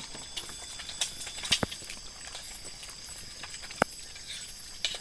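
Eggs frying in hot oil in a pan, with a handful of sharp separate pops and crackles, over a steady high-pitched insect drone from the forest.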